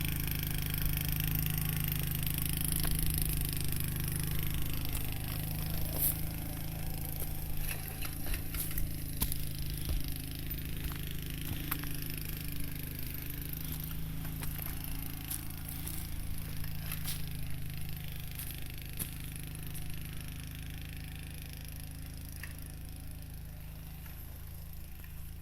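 Honda Cub's small single-cylinder four-stroke engine running steadily, slowly growing fainter, with scattered clicks and scrapes over it.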